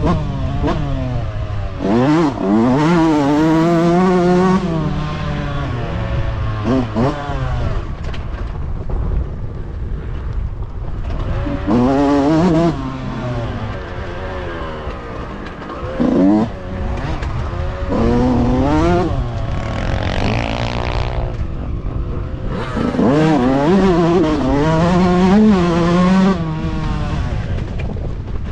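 Motocross bikes revving hard on the track, engine pitch climbing and dropping over and over with throttle and gear changes as they pass in several bouts.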